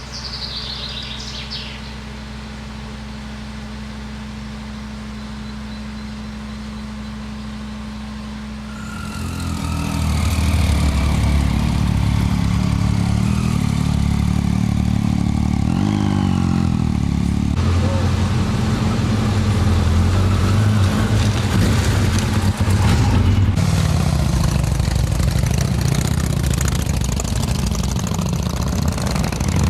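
Motorcycle engine idling steadily. About nine seconds in, the sound becomes much louder and rougher, with a brief rev rising in pitch near the middle.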